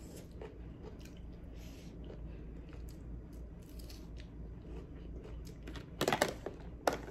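A person chewing a small red cherry chili pepper, with faint wet clicks from close up. About six seconds in, a plastic food container is picked up and handled, making two loud clatters that are the loudest thing here.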